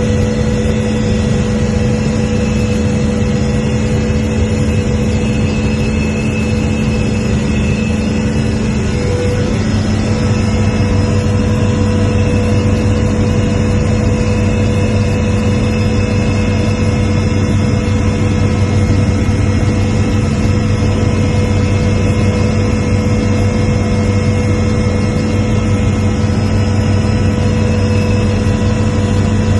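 An engine running steadily, its hum holding a constant pitch, with a lower drone coming in about nine seconds in. Under it is a steady rushing noise.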